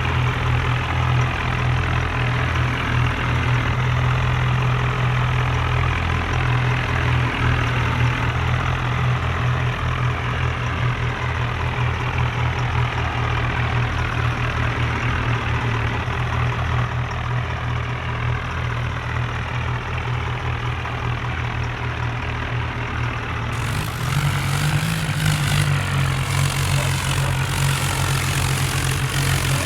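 Diesel tractor engines running steadily with a deep, low drone. The sound changes abruptly about 24 seconds in, and the engine pitch rises briefly just after.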